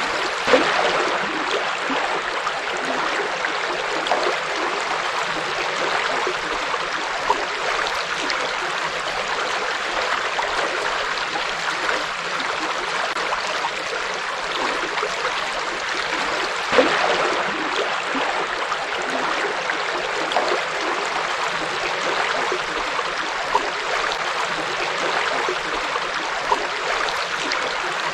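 River flowing: a steady rush of water, with a few brief louder splashes, the loudest about half a second in and about seventeen seconds in.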